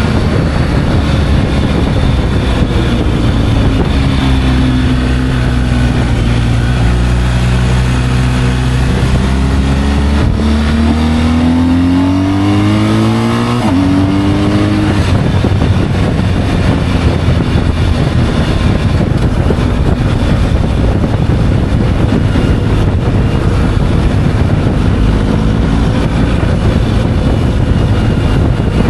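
Motorcycle engine running on the move, its pitch sagging and then climbing as it accelerates, with a sudden drop in revs about 14 seconds in like an upshift. After that it settles into a steady rush of engine and wind noise at speed.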